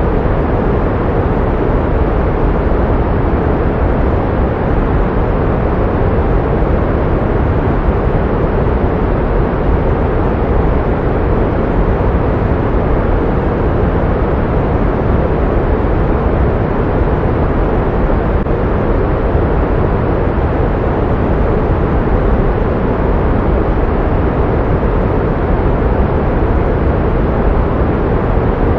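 Pink noise: a steady, unchanging rushing hiss, heavier in the low range and softening toward the highs.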